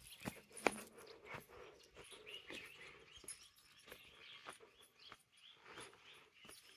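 Faint outdoor ambience: birds chirping now and then, with scattered light clicks and taps.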